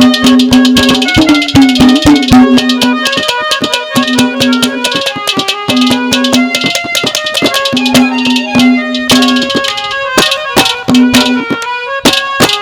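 Instrumental interlude of Haryanvi ragni folk music: a melody instrument plays over a repeatedly held low note, with quick, busy hand-drum strokes.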